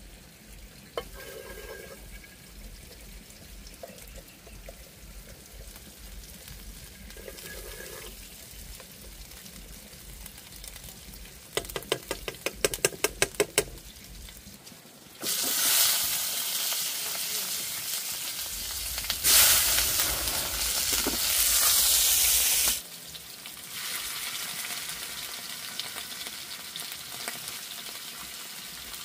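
Food frying in a pan, sizzling. A fast run of about a dozen knocks comes shortly before the sizzle suddenly grows much louder about halfway through; several seconds later it drops back abruptly to a softer sizzle.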